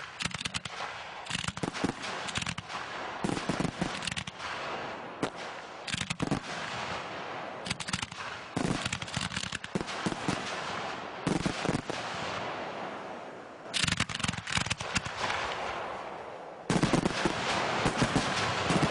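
Aerial fireworks bursting in rapid volleys of sharp bangs and crackle, coming in repeated waves with short lulls between them. The loudest, densest barrage starts about two seconds before the end.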